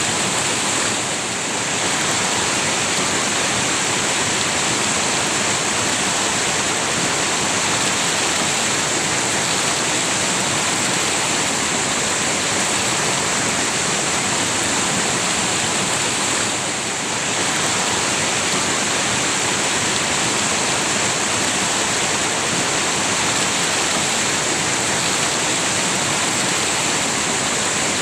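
River water rushing steadily, a dense even hiss strongest in the high range, easing slightly twice for a moment.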